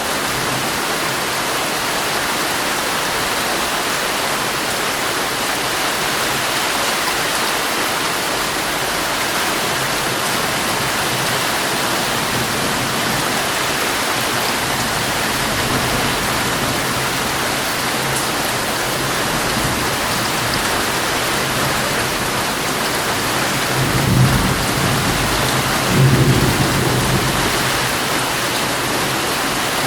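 Heavy rain drumming steadily on a tent, heard from inside. Two low rumbles of thunder come late on, a couple of seconds apart.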